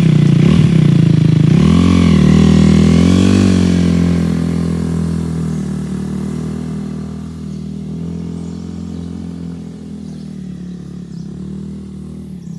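Honda Rebel 300's single-cylinder engine blipped once, then revving up as the motorcycle pulls away, its sound fading steadily as it rides off.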